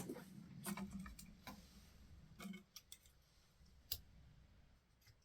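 Near silence with a few faint, scattered clicks and light knocks of objects being handled. The sharpest click comes about four seconds in.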